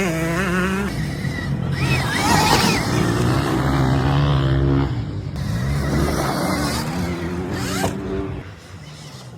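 Stark Varg EX electric enduro motocross bike riding the track: its electric motor whines, the pitch shifting up and down with the throttle, over tyre and dirt noise. The sound drops off near the end.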